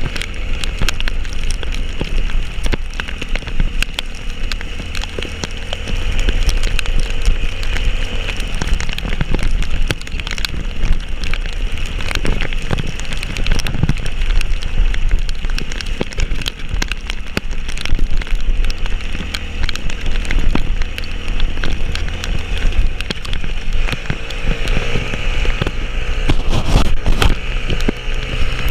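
Heavy rain falling, a dense pattering of drops over a constant low rumble.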